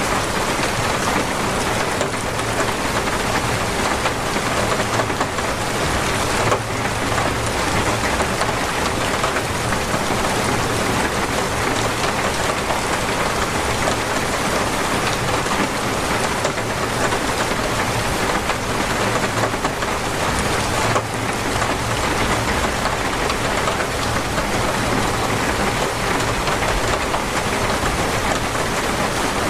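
Torrential rain falling steadily, an even, unbroken hiss of heavy rain.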